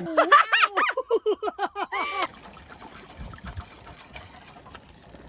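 Liquid glugging out of a bottle in quick gulps, each falling in pitch, for about two seconds, then a soft steady hiss.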